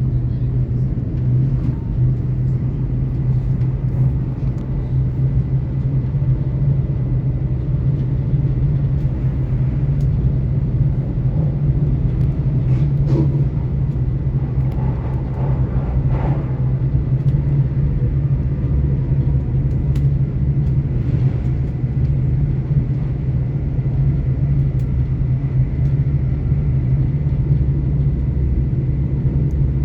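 Great Western Railway Class 800 IET train heard from inside the passenger cabin while running along the line: a steady low rumble from the wheels and running gear, with a faint steady high tone above it and a few light clicks.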